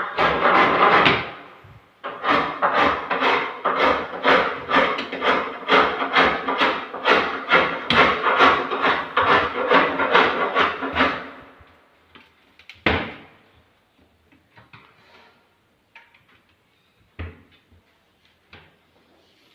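Hand tool working wood in rapid rasping strokes, about two a second, stopping shortly after midway. This is followed by two single knocks on wood and a few faint taps.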